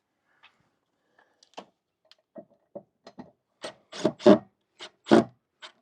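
Patio umbrella being worked loose and taken down: irregular knocks, scrapes and squeaks from its pole and frame, sparse at first and then coming thick and loud over the last two seconds or so.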